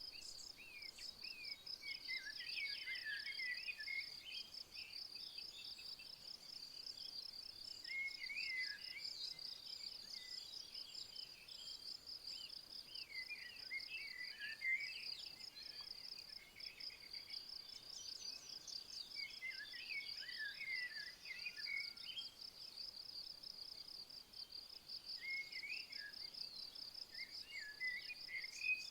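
Crickets trilling in a steady, rapid, high-pitched pulse, with a songbird singing short phrases of quick notes about every five to six seconds.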